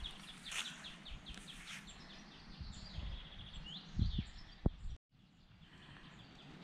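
Birds singing outdoors in rapid series of short, repeated chirps, with a few low thumps about four seconds in. The sound cuts out completely for a moment just after five seconds.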